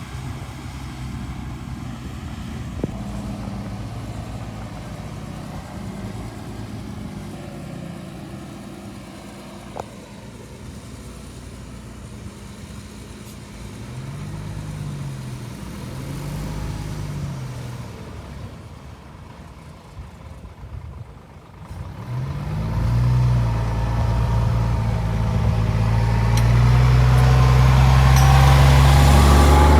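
Bulldozer's diesel engine running steadily, with two short rises and falls in engine speed partway through. From about two-thirds of the way in it revs up and runs louder under power, and a rising whine comes in near the end.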